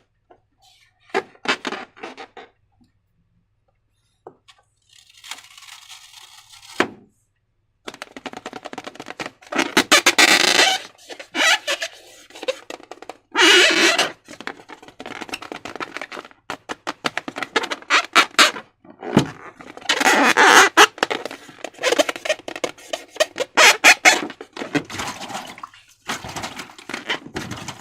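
Slime being squished and worked with transparent rubber balloons: wet squelching, crackling and rubbery squeaks in irregular bursts, with short pauses.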